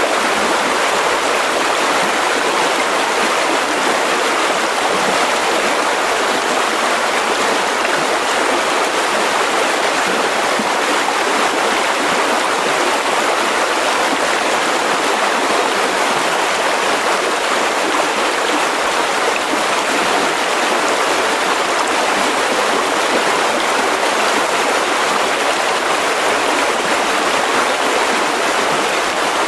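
Mountain river rushing steadily over rocks: an even, unbroken rush of water.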